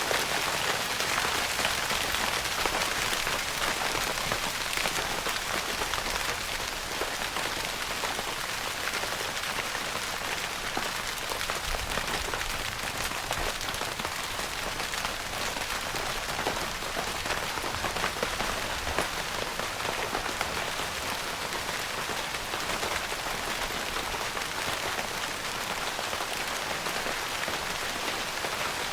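Steady rain pattering on a tent's fabric roof, heard from inside the tent: a dense even hiss of countless small drop taps.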